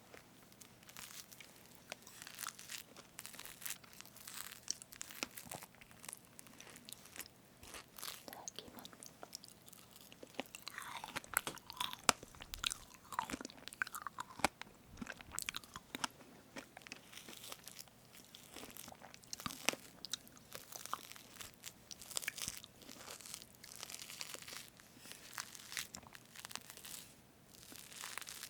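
Close-miked eating of a strawberry whipped-cream cake: a utensil cutting through fresh cream, with chewing and mouth sounds, making a stream of small irregular clicks and crackles.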